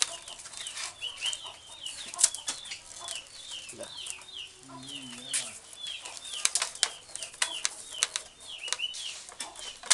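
A small bird chirping over and over, short high notes falling in pitch, two or three a second. Sharp clicks and taps of rattan strips being handled and tucked around a bamboo joint run under it, and there is a brief low call about five seconds in.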